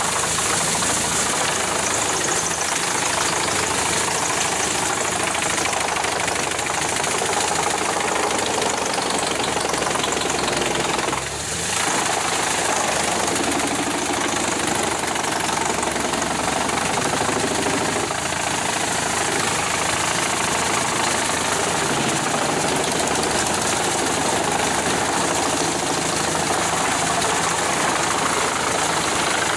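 Heavy forestry machinery running, its engine going continuously under dense mechanical noise, with a brief drop in level about eleven seconds in.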